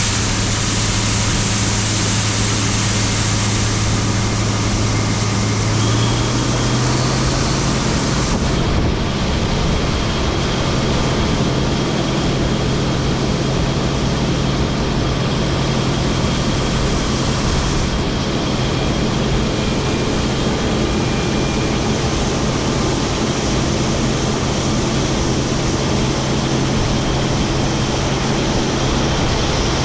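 International 1460 axial-flow combine running under harvesting load: a loud, steady drone of engine and threshing machinery. The engine's hum steps up slightly in pitch about six seconds in.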